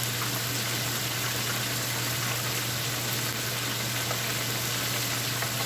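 Thin chicken breast strips deep-frying in hot oil: a steady sizzling hiss, with a steady low hum from the range hood fan underneath.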